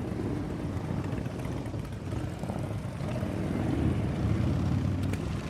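Motorcycle engines running with a low, pulsing rumble that swells about four seconds in.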